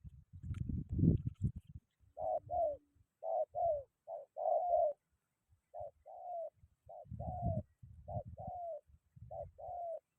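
Spotted dove cooing, about seven repeated phrases, each a short note followed by a longer falling coo. Gusts of wind rumble on the microphone near the start and again later.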